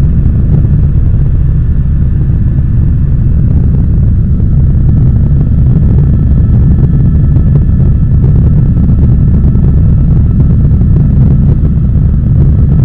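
Helicopter in flight, heard from inside the cabin: a loud, steady low drone of engine and rotors, with a faint steady whine above it.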